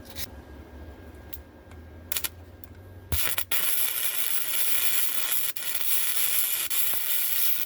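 MIG welder laying a short bead on steel: a steady sizzling hiss that starts suddenly about three seconds in and cuts off abruptly at the end, after a few light clicks.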